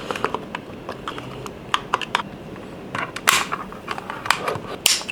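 A pry bar working the plastic front vision-sensor cover of a DJI Air 2S drone loose: irregular sharp plastic clicks and scrapes, the loudest about three seconds in and again near the end.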